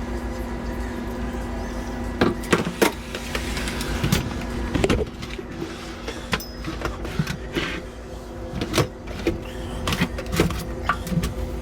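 A small electric motor hums steadily, while irregular sharp clicks and knocks of metal and tools come over it.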